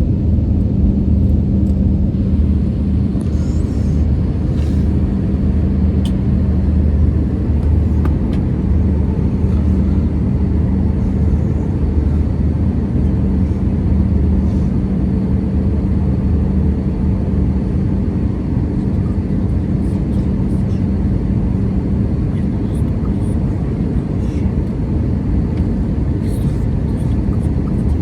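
Airbus A320 cabin noise in flight: a steady drone of engines and rushing air with a low, even hum.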